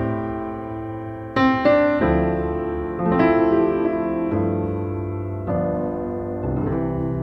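Background piano music: slow chords struck every second or so, each ringing and fading.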